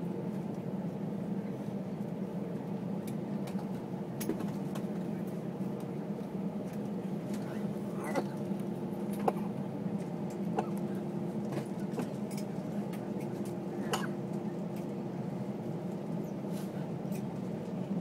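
Steady low hum inside an Airbus A320 cabin after landing, with a few held tones in it, and scattered light clicks and rattles over it.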